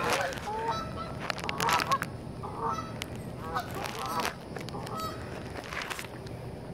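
A flock of geese honking, a string of short calls one after another that thin out after about four seconds.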